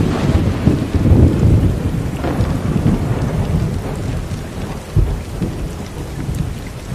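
Thunder rumbling over steady rain, loudest in the first couple of seconds and then dying away, with a short low thump about five seconds in.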